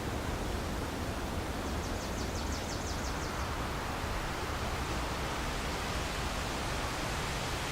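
Steady rushing ambience of wind and moving water. From about two seconds in, a short, fast, high trill of rapid ticks lasts over a second.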